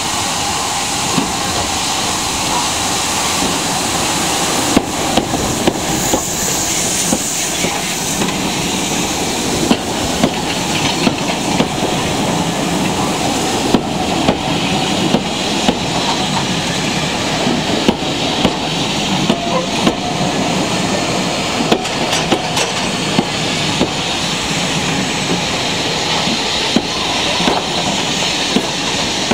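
Steam train passing close by: the locomotive goes past and then its carriages, a steady rumble with many sharp clicks and knocks as the wheels run over the rail joints from about five seconds in.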